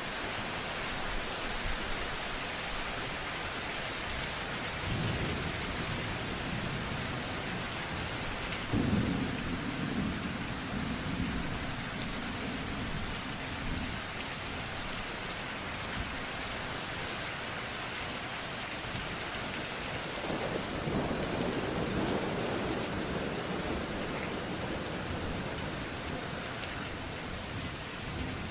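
Steady heavy rain with rolls of distant thunder: a low rumble about five seconds in, a louder one starting suddenly about nine seconds in and lasting several seconds, and another about twenty seconds in.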